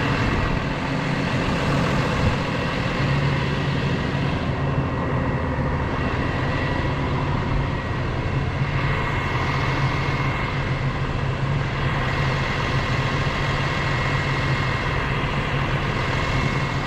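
Semi-truck engine running steadily with a constant low hum.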